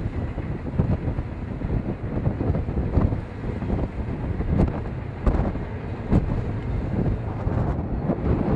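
Heavy wind buffeting the microphone in uneven gusts over a steady low rumble.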